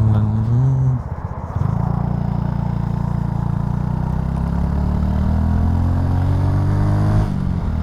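Honda Super Cub C125's single-cylinder engine under way: a short rev and a dip about a second in, then pulling through a gear with its pitch rising steadily for several seconds, before it drops suddenly near the end as the revs come off.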